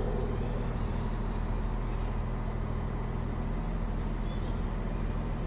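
Diesel train engine idling steadily, a low even drone that does not change.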